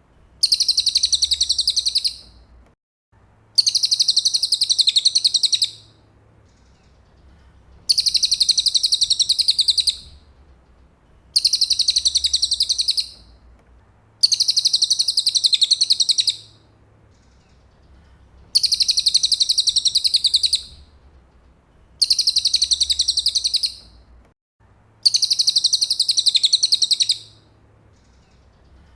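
Recorded song of a cililin bird: a high, rapid trill about two seconds long, repeated eight times at an even pace with short silent gaps, played as isian (tutor song) for training magpie robins.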